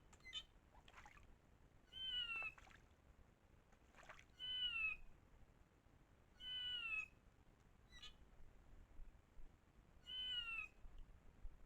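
An animal calling four times, about two seconds apart: each call a short, nasal note that falls slightly in pitch. A few brief, faint chirps fall between the calls.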